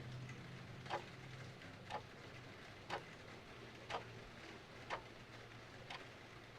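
Clock ticking steadily, once a second, over a soft, even hiss of rain.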